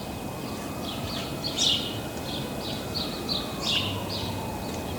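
Small birds chirping over and over, several short high chirps a second, over a steady background of distant traffic noise with a faint tone that slowly rises and falls.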